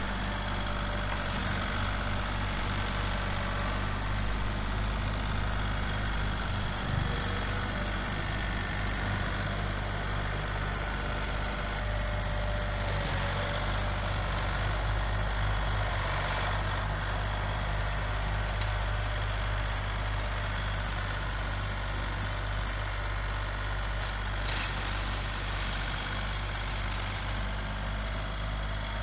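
Small tractor engine running at a steady speed, a constant low drone with no changes in pace.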